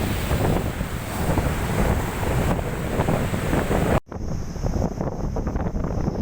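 Strong wind buffeting the microphone over river waves surging against the bank in cyclone weather. About four seconds in there is a sudden brief dropout where the recording cuts, and then the wind and water go on.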